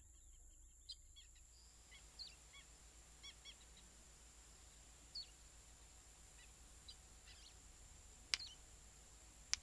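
Faint birds chirping in short, scattered high calls over a quiet background, with two sharp clicks near the end.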